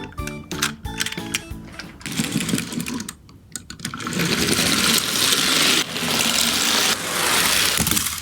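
Miniature toy garbage trucks rolling down a slope, their wheels and bodies rattling steadily; about four seconds in the rattling gets louder. Light background music with clicking notes plays in the first two seconds.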